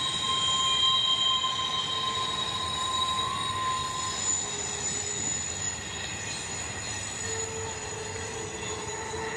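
Intermodal freight train's cars rolling past in a steady rush, with wheels squealing in several thin, held high tones that come and go.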